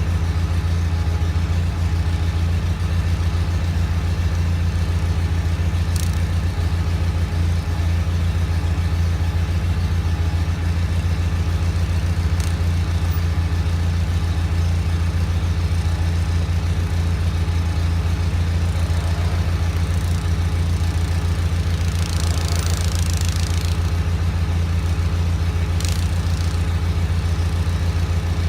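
John Deere 318 garden tractor's Onan two-cylinder engine running steadily while powering a Model 49 snowblower. A few sharp clicks are heard, and a brief hiss comes about two-thirds of the way in.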